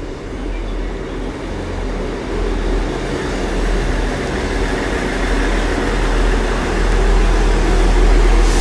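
Class 159 diesel multiple unit standing in the platform with its diesel engines idling: a steady low rumble that grows slightly louder towards the end.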